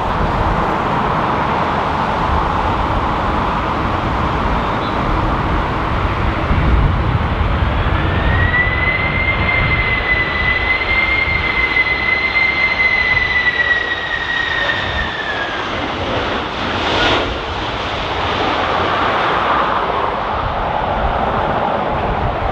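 Jet engines of a Boeing 767-300ER passing close on landing: a steady roar over a low rumble, with a high engine whine that rises about a third of the way in, wavers slightly and fades away about two-thirds through. Gusts of wind buffet the microphone.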